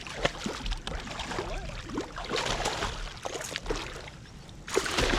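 Water sloshing and splashing around a kayak with scattered light knocks and clicks, as a hooked northern snakehead is brought alongside.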